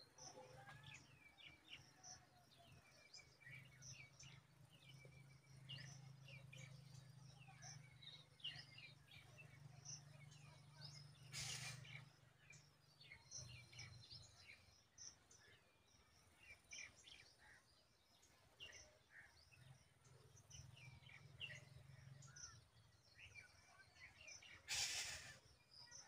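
Faint, high-pitched bird chirps: many short calls scattered throughout, over a low steady hum. Two brief rushing bursts of noise cut across, one about halfway through and a louder one near the end.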